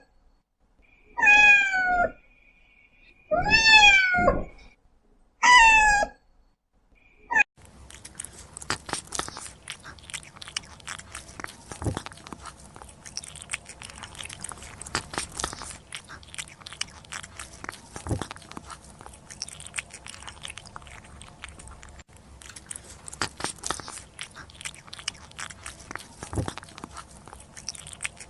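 A cat meows three times, each call falling in pitch, then crunchy chewing and biting goes on steadily for the rest of the time.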